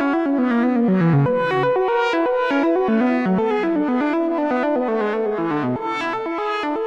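Arturia MicroBrute analog monophonic synthesizer playing a quick sequence of short single notes that step down in pitch in repeating phrases.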